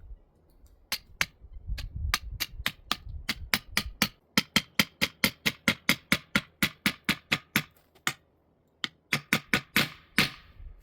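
Hammer blows on a forged steel bar, driving it into a tree trunk. Sharp strikes come steadily at about three or four a second, stop briefly, then come again a few more times near the end.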